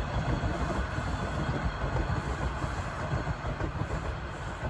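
Toronto subway train (TTC Line 1) running past on an open-air stretch of track, a steady rumble of wheels on rail.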